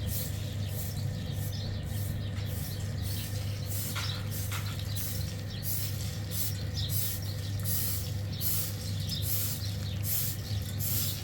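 Birds chirping in quick, irregular calls over a steady low hum.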